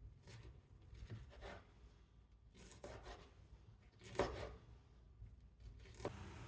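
Food being prepared on a cutting board: a few scattered scrapes and light knocks of a knife, the loudest about four seconds in.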